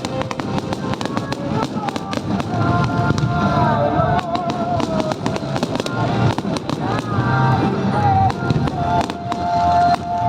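Fireworks finale: many bursts in quick succession, sharp bangs and crackling shells, with music playing over loudspeakers underneath.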